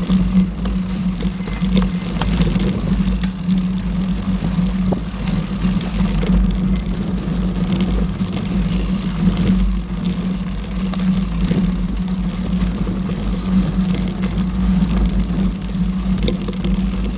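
Steady rumble of wind and tyre noise on the camera's microphone while riding a mountain bike along a forest trail, with a constant low hum underneath.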